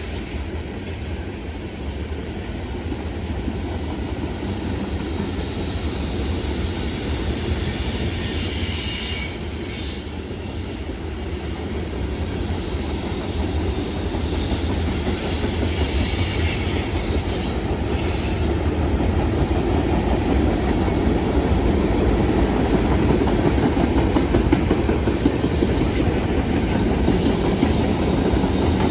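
A train rolling past on steel rails, with a steady rumble of wheels and cars. High-pitched wheel squeal comes and goes: one squeal near the middle ends abruptly, and a higher one comes near the end.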